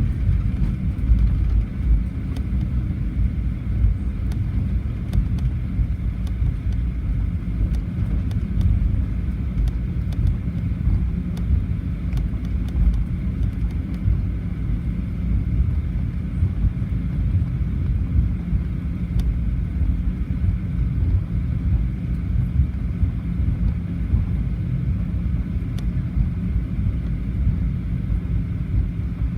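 Cabin noise inside a Boeing 737-800 on the ground: a steady low rumble with a constant hum from its CFM56 engines and airframe while it taxis, with a few faint ticks.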